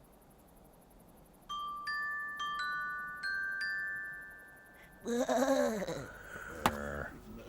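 A short run of bell-like struck notes, about eight, each ringing on, like chimes or a glockenspiel in a cartoon score. About five seconds in, a louder wavering voice-like call with bending pitch takes over, with a sharp click near the end.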